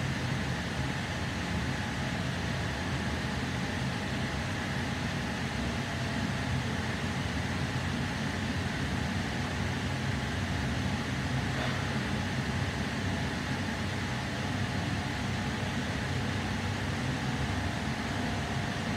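Steady running noise inside a Sydney Trains K set double-deck electric train carriage under way: an even low rumble and hum with no changes.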